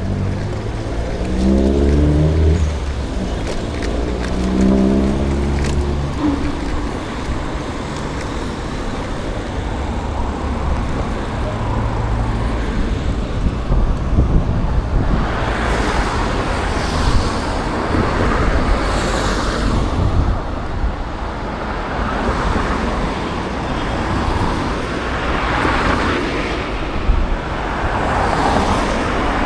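City road traffic: a motor vehicle's engine rises in pitch twice as it pulls away in the first few seconds. In the second half, cars pass one after another with a swelling rush of engine and tyre noise.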